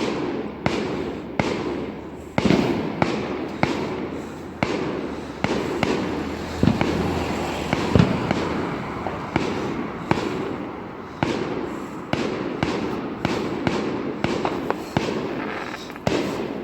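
Fireworks going off in a steady barrage: sharp bangs about once or twice a second, each trailing off in an echo.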